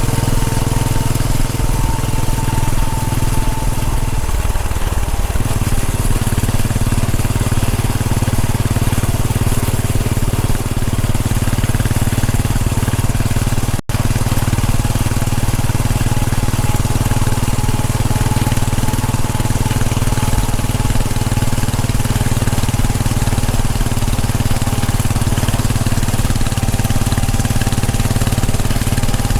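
Royal Enfield Bullet 500's single-cylinder engine running steadily under way. The sound drops out for an instant about halfway through.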